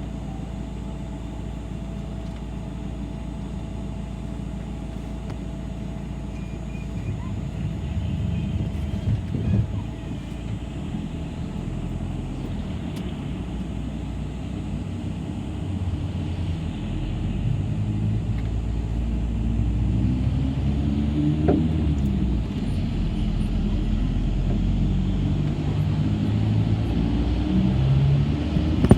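City bus engine running, with road noise, heard from inside the bus. The hum grows louder and shifts in pitch through the second half.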